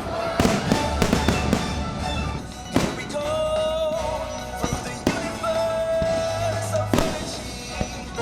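Fireworks show: about six sharp firework bangs over loud show music with long held notes.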